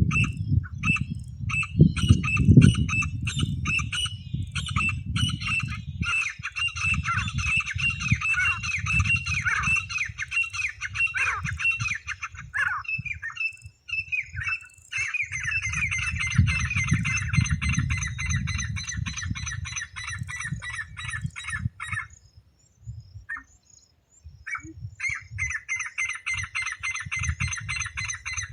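Francolin (teetar) calling over and over in fast, harsh repeated notes, with a low rumble underneath. The calling breaks off for about two seconds near the end, then starts again.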